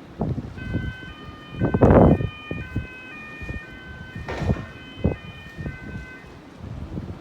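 A two-tone emergency-vehicle siren alternating between a high and a low note for about six seconds. Gusts of wind buffet the microphone, loudest about two seconds in and again a little past the middle.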